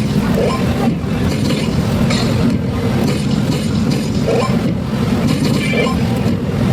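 Steady, loud din of a pachislot parlour: many slot machines running at once, with a dense low rumble and faint electronic chirps over it.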